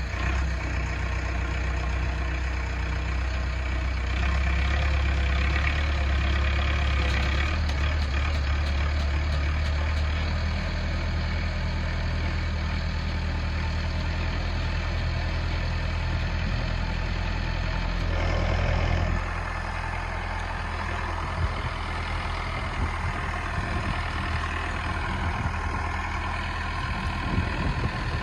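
Heavy diesel engine running steadily at idle. Its low hum drops down about ten seconds in and again about two-thirds of the way through, with a few light knocks near the end.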